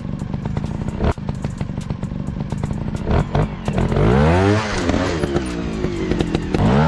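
Dirt bike engines running, revving up and back down twice: once about two-thirds of the way in and again near the end.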